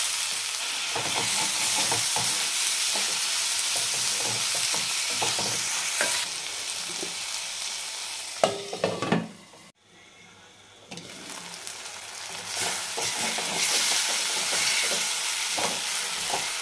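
Chopped tomatoes, onions and green chillies sizzling in hot oil in a stainless steel kadai, with a spatula scraping and knocking against the pan as it stirs them. The sizzle breaks off briefly just before halfway, then carries on.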